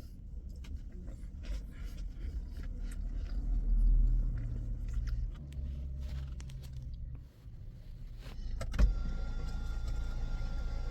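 Car interior with the engine running: a steady low rumble and scattered small clicks of handling. The rumble dips briefly about seven seconds in, then a sharp click just before nine seconds is followed by a steadier hum with a faint whine.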